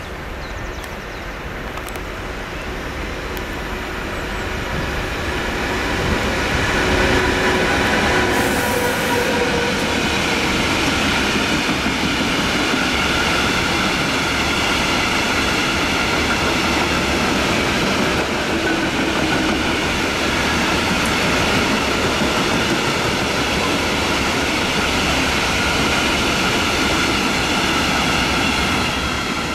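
A freight train of hopper wagons passing close by, its sound building over the first several seconds as it arrives. It then settles into a steady rolling rumble with rhythmic wheel clatter and a high, steady squeal from the wheels.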